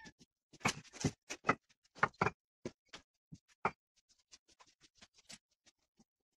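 An irregular series of sharp knocks and taps, loudest in the first few seconds, then turning into fainter, quicker ticks.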